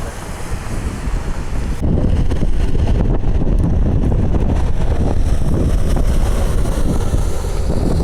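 Wind buffeting the microphone: a loud, low, rumbling rush with no steady tone, the hiss thinning out about two seconds in.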